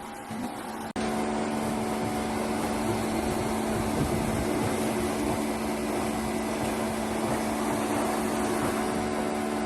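A machine running steadily, typical of a woodworking power tool; it starts abruptly about a second in.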